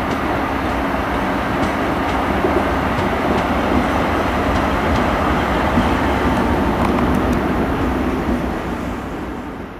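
Freight train rolling through the yard: a steady rumble of wheels on rail with faint clicks over the joints, fading out near the end.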